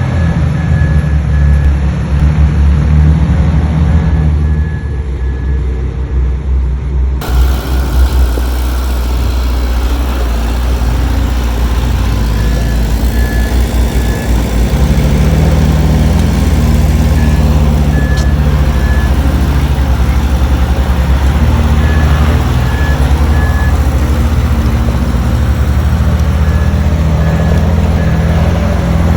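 Heavy diesel engines of earthmoving machinery running steadily under load. A reversing alarm beeps in short runs of three or four beeps, repeating every few seconds. The sound changes abruptly about seven seconds in.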